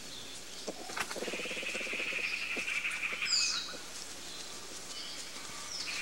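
Forest birds calling: a steady high trill that lasts a couple of seconds, with quick falling chirps about three seconds in. A low, rapid pulsing sound comes about a second in, and the trill and chirps return near the end.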